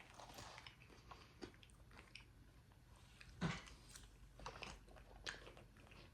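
Close-miked chewing and mouth sounds of a person eating, with scattered faint crunches and wet smacks and one sharper bite about three and a half seconds in.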